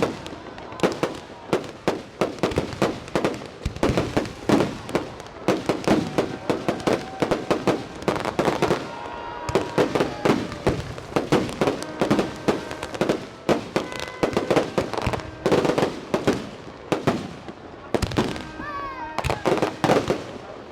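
Fireworks display: a dense, continuous barrage of sharp bangs and crackles, several bursts every second.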